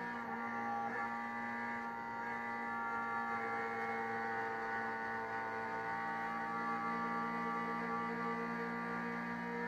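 Race car's engine heard from inside the cabin, running at nearly steady revs as a droning hum of several tones.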